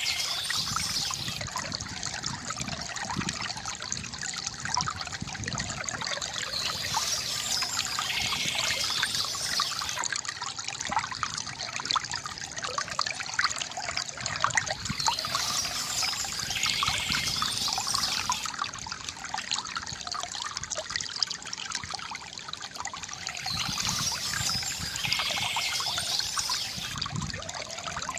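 Water from a bamboo fountain trickling and splashing steadily into its basin, with a brighter, hissier patch about every eight seconds.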